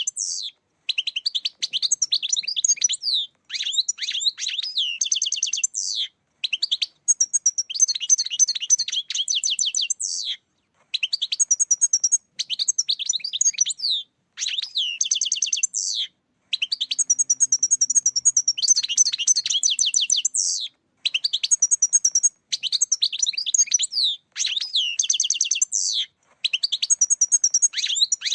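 European goldfinch singing: bursts of rapid, liquid twittering and trills, in phrases of one to four seconds broken by short pauses.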